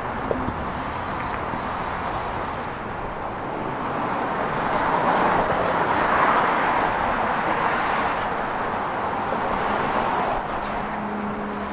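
Road traffic, with a vehicle passing that swells over several seconds and then fades.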